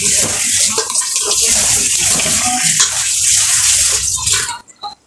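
Chicken pieces and masala sizzling in hot oil in a pan, a loud steady hiss that cuts off suddenly about four and a half seconds in.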